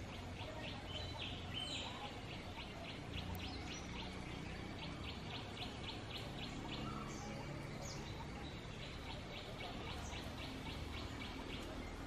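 A bird calling a fast, even series of short high notes, about five a second, in two long runs with a brief pause between them, over a steady low rumble.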